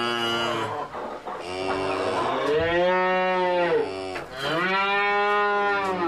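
A cow mooing: one moo ends a little under a second in, followed by two long moos of about two seconds each, their pitch rising and then falling.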